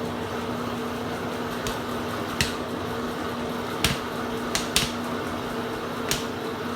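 Five sharp plastic clicks from a camera tripod being handled and extended, over a steady electrical hum.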